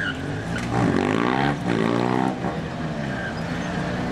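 Motorcycle engine idling, then revved up and let back down once over about a second and a half in the middle.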